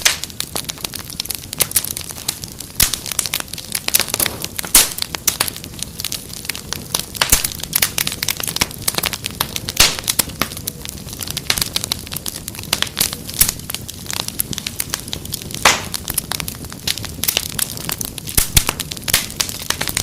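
Wood fire crackling, with frequent irregular sharp pops and snaps over a low steady rush of flame.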